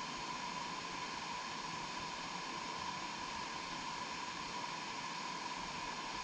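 Steady, even rushing hiss with a faint constant mid-pitched tone running through it.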